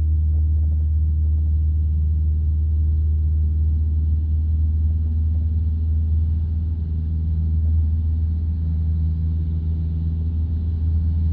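Light aircraft's piston engine and propeller running in a steady deep drone, heard from inside the cockpit.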